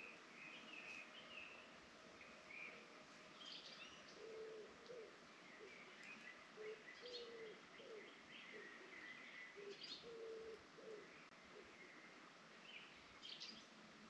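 Faint forest birdsong: scattered high chirps and short trills from several birds over a soft steady background, with a series of short low calls from about four to eleven seconds in.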